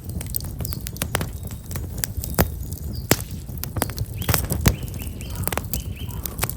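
Black locust firewood burning in an open campfire, crackling with frequent sharp, irregular pops over a low steady rumble. A small bird chirps a few short notes about two-thirds of the way through.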